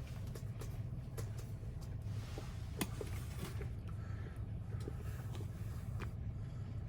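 Scattered light clicks and taps of small tools and lock parts being handled, over a steady low hum.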